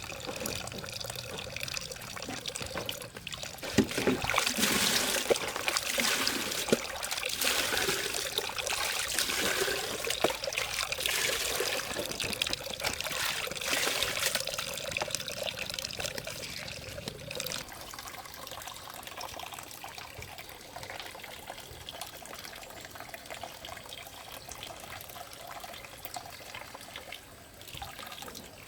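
Water trickling and pouring, louder through the first half and softer after about 17 seconds in.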